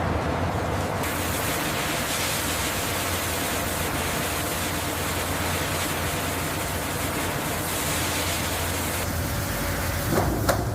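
Steady machinery noise: a constant low hum under a broad hiss, with a couple of short knocks near the end.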